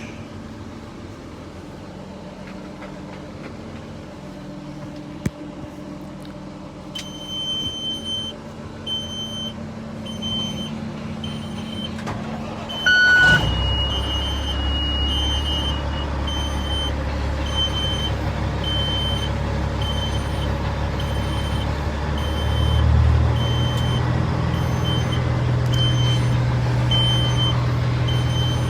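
Truck's warning chime beeping steadily, then the engine cranks briefly and starts a little under halfway through, settling into a steady idle. The idle speed steps up near the end while the chime keeps beeping.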